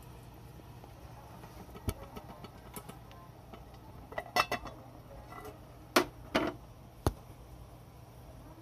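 Metal camp cookware and utensils being handled, giving a few scattered clinks and clatters, the loudest pair about six seconds in.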